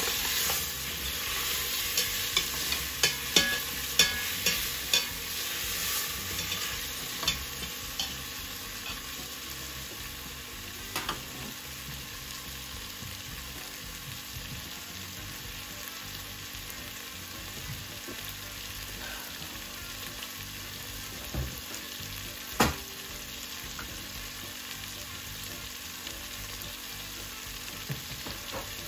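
Potatoes and onions frying in oil in a stainless steel pot, sizzling steadily. For the first eight seconds or so a metal spatula scrapes and clacks against the pot as they are stirred; after that there is only the sizzle and an occasional clink.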